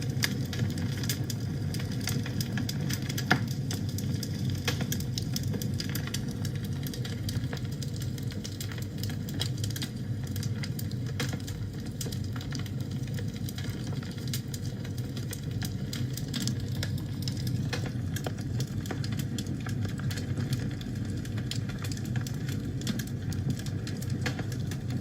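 Wood fire burning in a fireplace: a steady low rumble with frequent small crackles and pops, and one louder pop about three seconds in.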